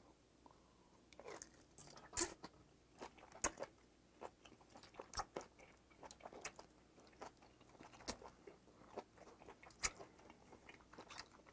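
A person chewing a boiled octopus tentacle close to the microphone: faint, irregular wet mouth clicks and smacks.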